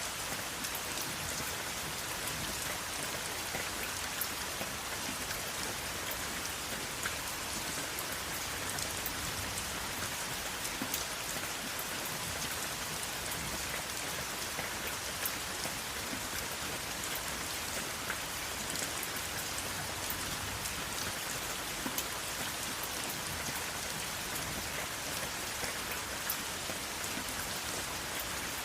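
Steady rain falling without thunder, an even hiss with many small, sharp drop impacts scattered through it.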